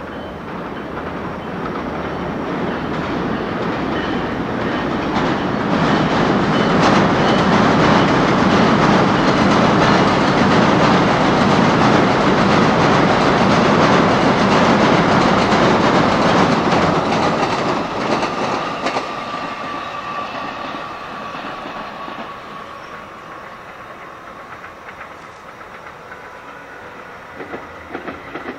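A train passing: the rumble and clickety-clack of its wheels on the rails builds over several seconds, stays loud for about ten seconds, then fades away.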